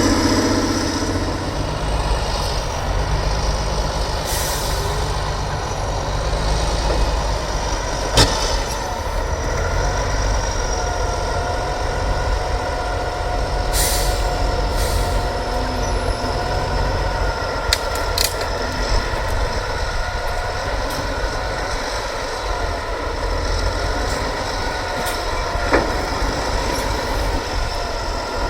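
Heavy trial truck's diesel engine running at low revs, a steady low rumble with a faint whine, broken by several short hisses of air from the air brakes and a few sharp knocks.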